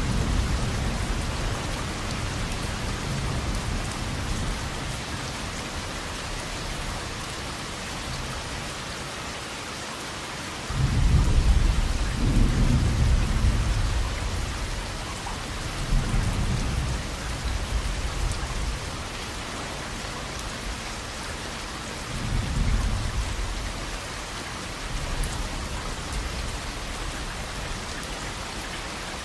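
Steady rain falling, with rolling thunder. A rumble fades over the first few seconds, a louder peal begins about a third of the way in and lasts a few seconds, and two weaker rumbles follow later.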